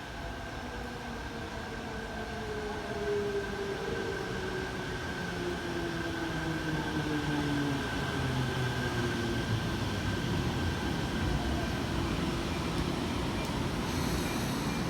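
Tokyo Metro Tozai Line subway train pulling in and braking, its motor whine falling slowly in pitch while the rumble of the wheels grows louder.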